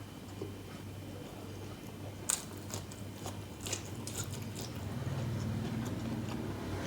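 Close-up chewing of food by mouth, with a few sharp crunches in the middle stretch, over a steady low hum.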